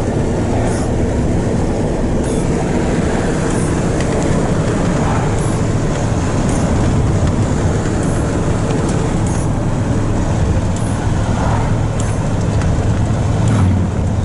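Steady drone of a truck on the move: low engine hum with road and tyre noise.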